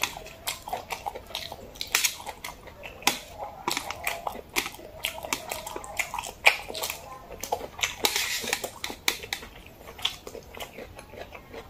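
Close-miked wet chewing and lip smacking while eating jajangmyeon, noodles in black bean sauce: a quick, irregular run of sharp smacks and clicks, with a longer hissing stretch about eight seconds in.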